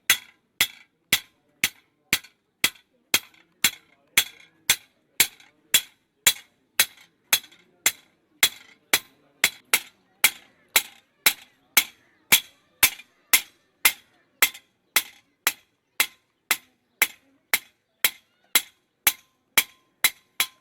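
Blacksmith's hammer striking hot metal on an anvil in a steady rhythm, about two blows a second, each with a short metallic ring; the hammering stops at the end.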